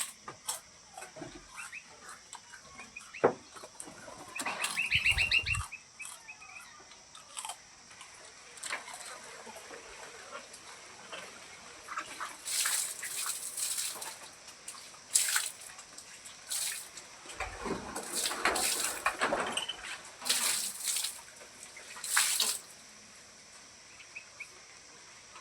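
Short bursts of splashing water, as from hands being washed, with a brief rising call from a pet Javan myna about five seconds in.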